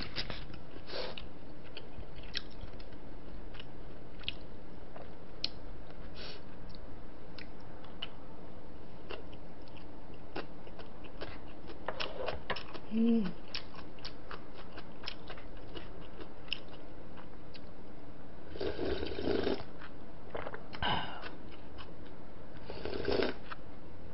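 Close-miked chewing and wet mouth sounds of a person eating, many small clicks and smacks, with a few louder noisy moments near the end.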